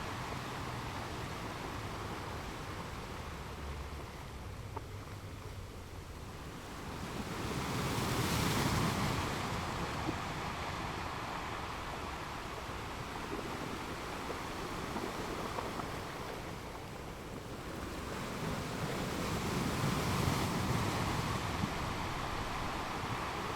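Ocean waves breaking on rocks, a steady wash of surf that swells twice as two larger waves break, about eight seconds and twenty seconds in.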